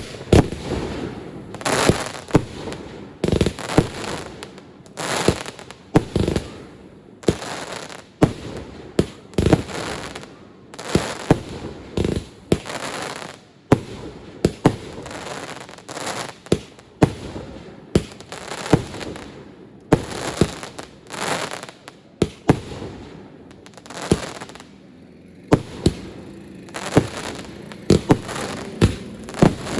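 Fireworks display: aerial fireworks firing and bursting in a steady irregular succession of sharp bangs, about one or two a second, with crackling and hiss between them. A quick flurry of bangs comes near the end.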